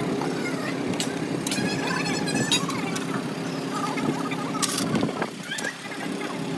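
A steady mechanical hum with metal clicks and clinks from tools, dipping briefly about five seconds in.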